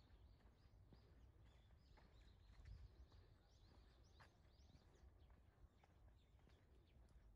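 Faint chirping of small songbirds: many short, high calls in quick succession.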